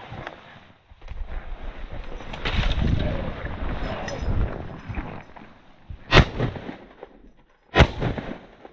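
A rooster pheasant flushing, a few seconds of rustling and flapping, followed by two shotgun shots about a second and a half apart.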